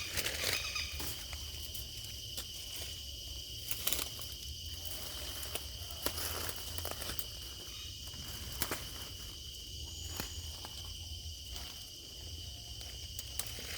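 A steady high insect drone, with footsteps on forest ground at irregular intervals and a few sharper crunches.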